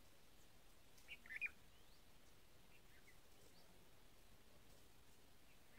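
Near silence with a bird's short chirping call about a second in, then a few fainter chirps around three seconds.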